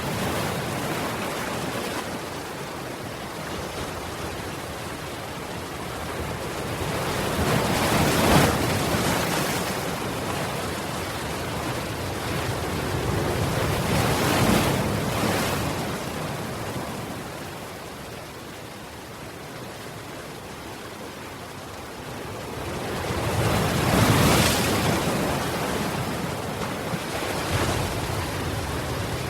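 Ocean waves washing onto a shore: a steady surf hiss that swells into three louder breaking waves, about 8, 14 and 24 seconds in.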